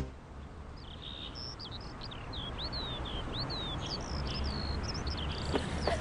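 Small birds chirping, many short whistled notes quickly rising and falling, over a steady outdoor background noise.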